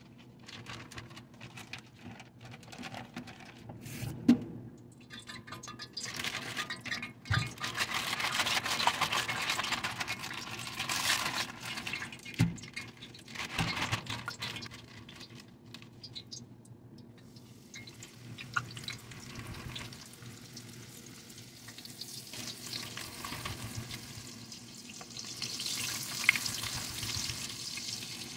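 Floured chicken pieces frying in hot oil in a cast iron skillet, a sizzle that builds near the end. Earlier, a plastic bag rustles and a few sharp knocks are heard as the chicken is coated in flour.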